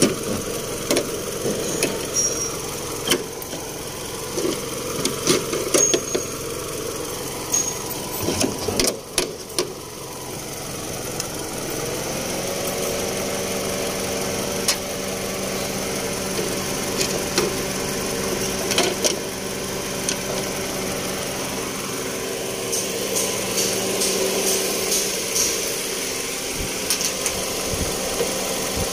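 Metal clinks and knocks of hand tools during engine installation work, then about twelve seconds in a motor starts and runs with a steady hum.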